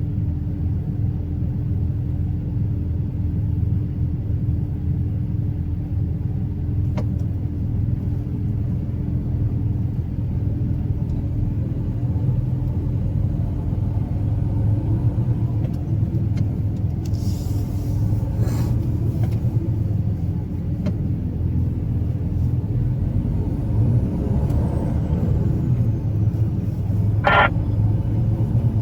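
Truck engine and road noise droning steadily while driving, with a short hiss a little past halfway and a brief high squeak near the end.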